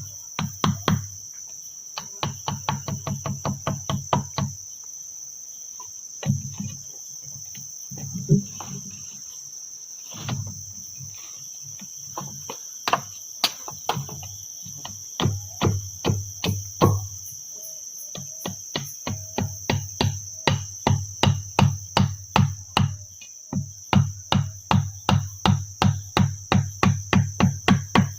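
Runs of repeated hard blows, about three to four strikes a second with short pauses between runs, as a tool is struck over and over at camp work. A steady high insect drone of crickets runs underneath.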